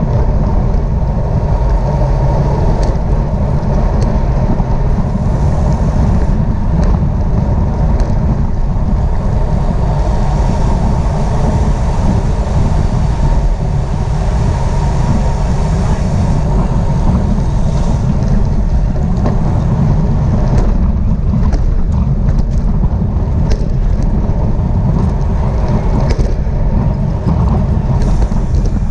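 Wind buffeting the microphone of a camera on a moving bicycle: a steady, loud low rumble, with a few faint clicks in the second half.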